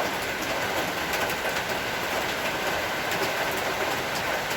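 Steady rain falling, an even hiss of noise with scattered faint drop ticks.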